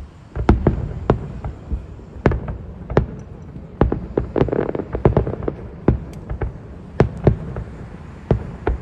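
Aerial fireworks going off in quick, irregular succession: many sharp bangs, at times several a second, with a low rumble between them.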